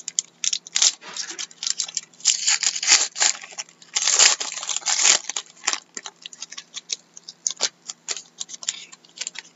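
Foil trading-card pack being torn open and crinkled, with the cards rustling as they are handled, in many irregular short bursts. A longer burst of ripping and crinkling comes about four seconds in.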